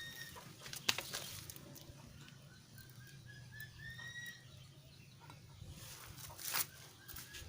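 A bird calling in a run of short chirps and rising notes, with a few sharp clicks and knocks of something being handled.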